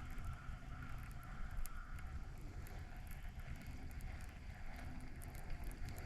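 Low, steady wind rumble on the microphone, with scattered faint clicks and a faint steady whine during the first two seconds.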